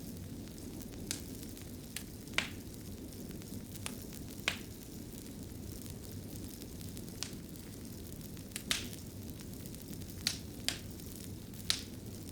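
Fireplace fire burning with a steady low rumble and irregular sharp crackles and pops, a dozen or so scattered through, a few of them louder than the rest.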